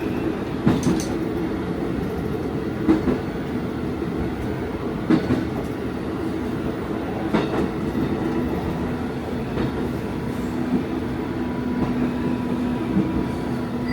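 Diesel railcar running along the line, heard from inside the cab end: a steady engine and running hum, with wheel clicks over rail joints every couple of seconds.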